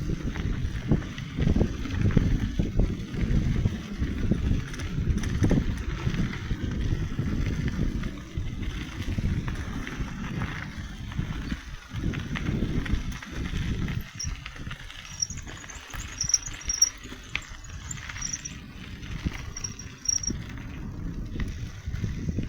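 Wind buffeting the microphone of a camera on a moving bicycle, a gusty low rumble that rises and falls. Faint high-pitched chirps come and go in the second half.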